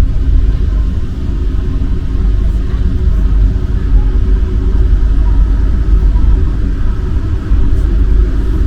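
Rubber-tyred MP 05 metro train running at steady speed, a loud continuous rumble with no breaks.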